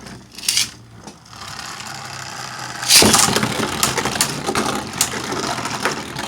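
Two Beyblade Burst spinning tops launched into a plastic stadium with a loud crack about three seconds in, then spinning and clashing in slingshot mode, with a run of sharp clicks as they hit each other and the stadium wall.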